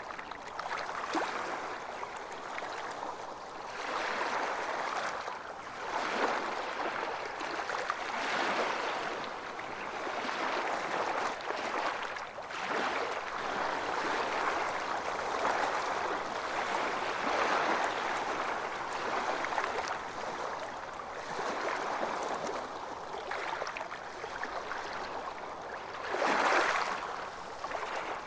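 Ocean waves breaking and washing ashore, the rushing noise swelling and fading every few seconds, with one louder surge near the end.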